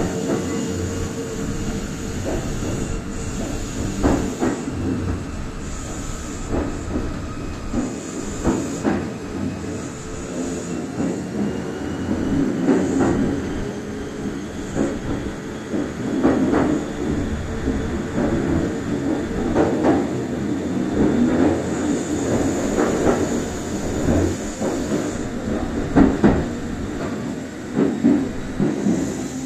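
Kintetsu express electric train running on standard-gauge track, heard from inside the lead car: a steady rumble of wheels on rail with irregular clacks, and faint tones over the top.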